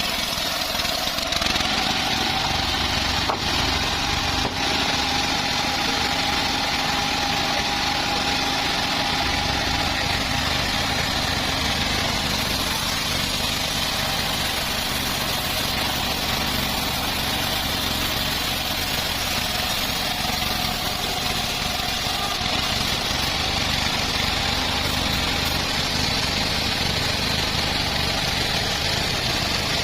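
Homemade bandsaw sawmill running steadily while it saws a teak log, with a steady whine that drifts slightly in pitch.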